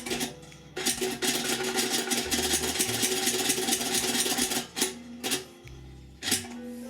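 A rapid, continuous scraping or rasping sound, starting about a second in and lasting about four seconds, over background music. A couple of short knocks follow near the end.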